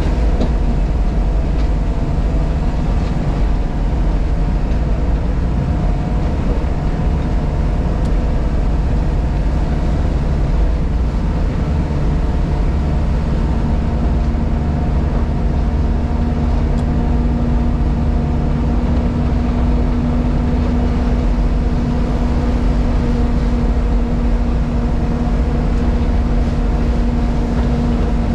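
JCB Pothole Pro's diesel engine running steadily, heard from inside the cab. A steady higher hum comes in about halfway through and holds.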